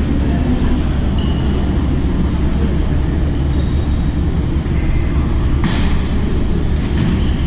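Badminton rally in a hall: short shoe squeaks on the court and two sharp racket-on-shuttlecock hits in the second half, over a steady low rumble.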